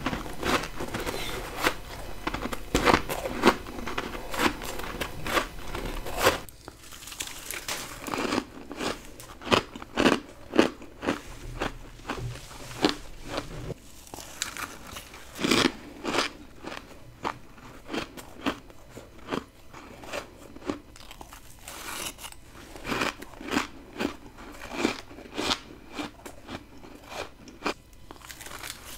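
Close-miked bites and crunching of freezer-frost ice, one crisp bite after another. A faint low hum underneath stops about six seconds in.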